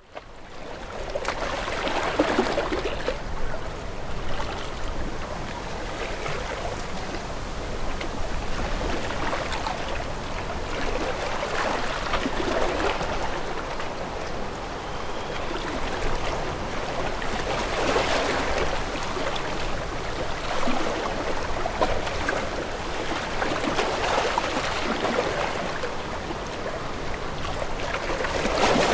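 Sea waves washing against a boat, a steady rush of water that swells and eases every few seconds. It fades in at the start.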